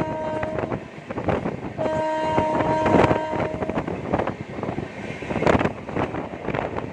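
Indian Railways train horn sounding twice, a held blast ending just under a second in and a second blast about two seconds long, over the steady rumble and rhythmic clatter of a running train's wheels on the rails.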